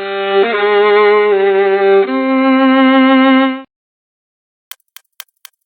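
Violin playing a short phrase of three sustained bowed notes with vibrato, stepping down in pitch, for about three and a half seconds. Near the end a clock starts ticking, about four ticks a second.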